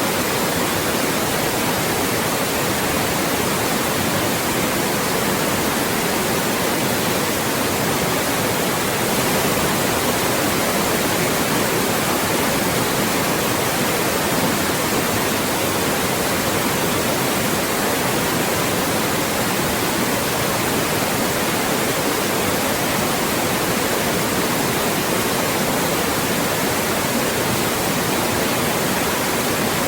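Loud, steady white noise: an even hiss across the whole range that does not change.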